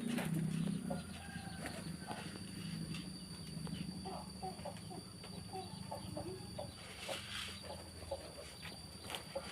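Domestic birds calling at feeding time: short, low clucking and cooing notes that cluster from about four seconds in, with scattered light clicks.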